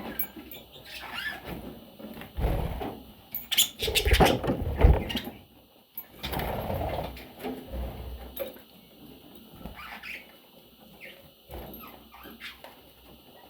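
Pet budgies scuffling and pecking with a few short chirps. The loudest thuds and knocks come about four to five seconds in.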